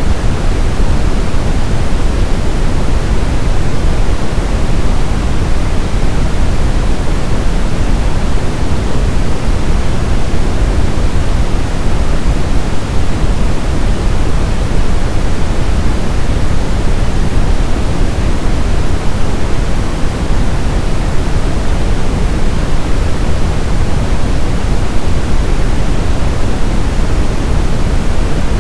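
Steady brown noise: a deep, even hiss-rumble with most of its energy in the low end, unchanging throughout.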